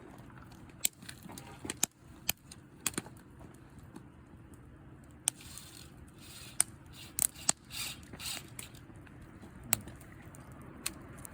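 Campfire of hiba (Hinoki asunaro) stick firewood crackling, with sharp, irregular pops and two short stretches of hissing about six to nine seconds in.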